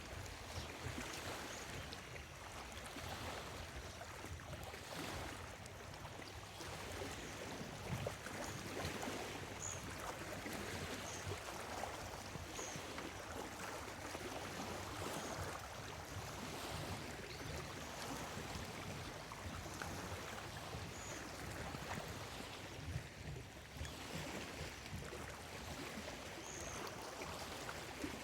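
Small lake waves lapping steadily, swelling and easing every second or two. A few faint, short, high bird chirps come at scattered moments.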